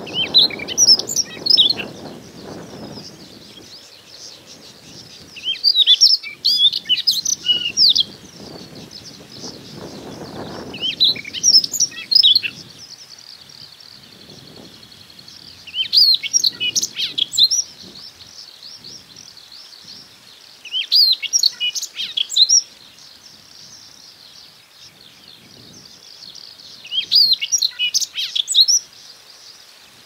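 Male Siberian rubythroat singing its high-pitched breeding-season song: six short phrases of one to two seconds each, about five seconds apart.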